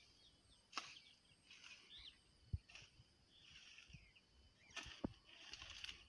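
Faint chirping and short gliding calls of birds, with a few soft knocks and thuds.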